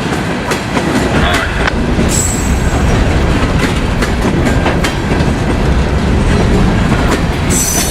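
Railroad cars rolling past close by, their wheels clicking over rail joints. A short, high wheel squeal comes about two seconds in and again near the end.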